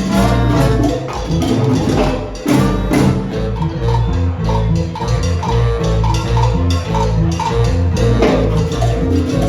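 Salsa band playing live: an instrumental stretch with a steady bass line and hand percussion keeping a driving rhythm, and no singing.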